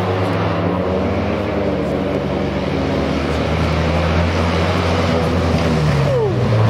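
Fiat 126p rally car's small air-cooled two-cylinder engine running under load as the car approaches on a snowy road, the engine note dipping and rising and growing louder toward the end.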